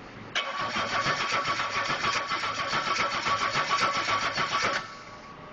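Engine being cranked over on its starter motor for about four and a half seconds, with a rhythmic pulsing churn and a steady whine, then cut off suddenly; it does not catch and run.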